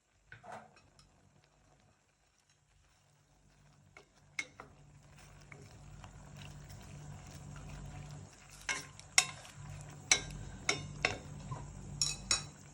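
Food cooking in a pan, with a utensil stirring it. A light cooking noise builds from about a third of the way in, and the utensil knocks sharply against the pan several times in the second half.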